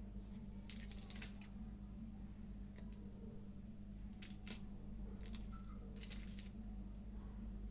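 Crisp crackling from a Cadbury Dairy Milk Crispello bar being handled and eaten close to the microphone. It comes in short clusters of clicks a second or two apart, over a steady low hum.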